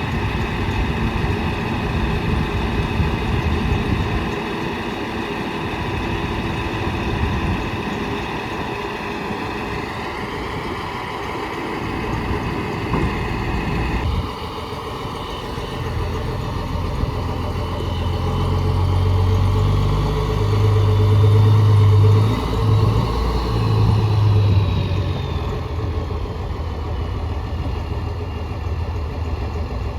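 Ford L7000 dump truck's engine running steadily, rising briefly in pitch about ten seconds in, with the sound changing abruptly a few seconds later and then running deeper and heavier through the middle stretch.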